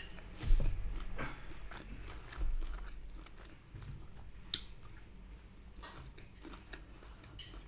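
A person chewing and biting takeaway food close to the microphone, with wet mouth clicks and crunchy bites; the loudest bite comes about half a second in.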